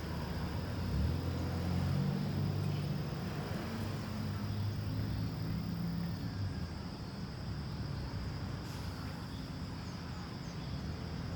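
Car engine and tyre noise heard from inside the moving car, a steady low hum, with a constant high insect drone over it.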